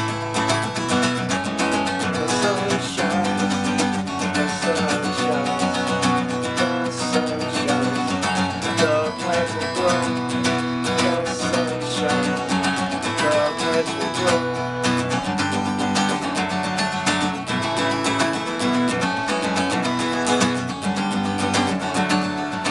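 Acoustic guitar playing an instrumental passage, strummed chords with picked notes over them.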